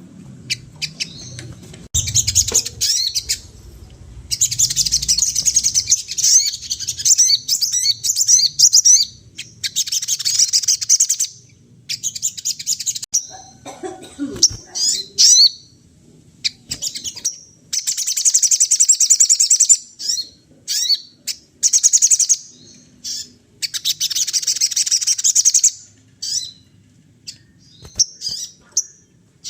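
A sogon songbird singing hard in fast, high-pitched chattering phrases a second or two long with short breaks between them, a song built from mimicked calls of other birds.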